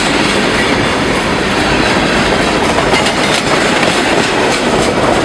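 A train's cars rolling past close by: a loud, steady rumble and rattle, with wheels clicking over the rail joints.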